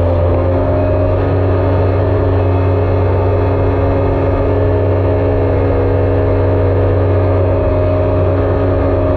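Jet ski engine running steadily, a loud even drone.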